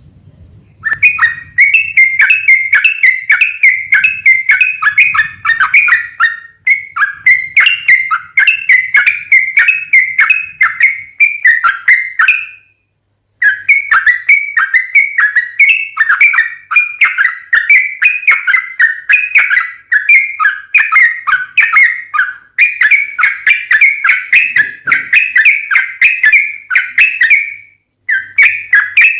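Yellow-vented bulbul (trucukan) singing long, rapid runs of chirping notes with hardly a break: the aggressive 'fighting' song used as a lure to set other trucukan singing. The runs stop briefly about 13 s in and again near the end.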